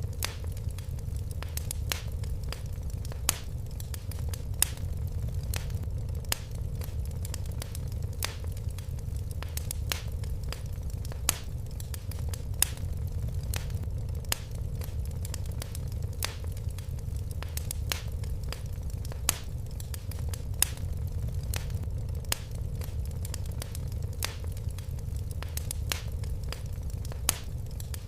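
Wood fire crackling: irregular sharp pops and snaps, a few each second, over a steady low rumble of flames.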